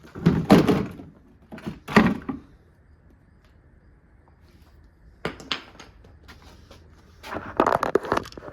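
Thuds and clattering knocks of a Kuppet portable washing machine's plastic body being smashed apart: several hard hits at first, a quieter gap, then a quick run of clattering strikes near the end.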